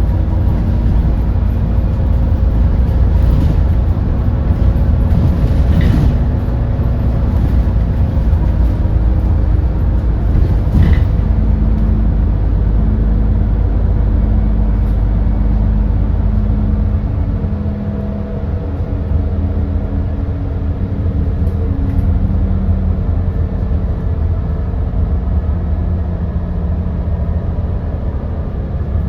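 Edison Motors Smart 110G city bus's GX12P natural-gas engine running as the bus drives, a steady low rumble with a few humming tones. It eases off and gets somewhat quieter about two-thirds of the way through.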